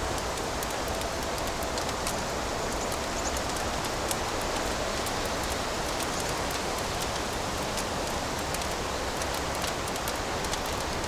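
Fire crackling in a fireplace: a steady hiss with many small, sharp crackles and pops scattered throughout.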